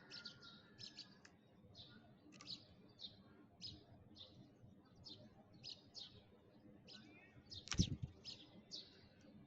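Sparrows chirping: short single chirps repeated about twice a second. There is one loud thump about eight seconds in.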